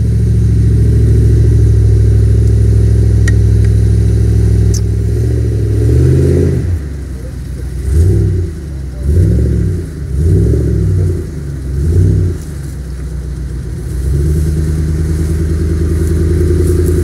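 Range Rover P38's 4.6 V8 with a custom exhaust, working under load in deep mud: held at steady revs for about six seconds, then revved up and dropped about five times in quick blips, then held steady again.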